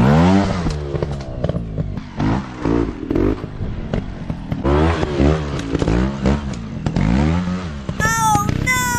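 Dirt bike engines revving in repeated swells, pitch rising and falling about once a second, with clattering and scraping. Near the end come two high, falling cries.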